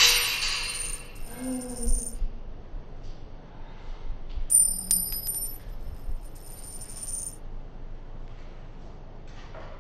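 A short cry dies away at the very start. Then comes a bright metallic jingle with repeated clinks, once for about two seconds and again for about three seconds around the middle, each time stopping abruptly, with a few soft knocks in between.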